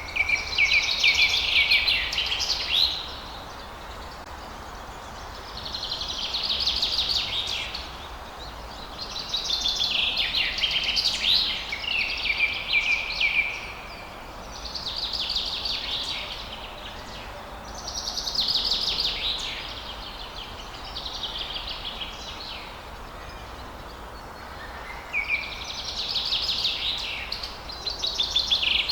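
A songbird singing a series of fast, trilled song phrases, each about two to three seconds long with short pauses between, over a steady background hiss.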